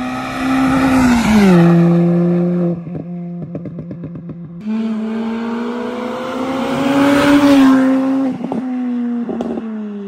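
Peugeot 206 GTI 180's 2.0-litre four-cylinder engine pulling hard as the car drives past twice, its pitch dropping sharply each time it passes. Sharp cracks come through in the middle.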